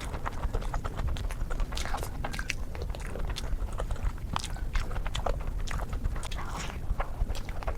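Close-miked eating of spicy fish curry: wet chewing and lip smacks, with many quick irregular clicks.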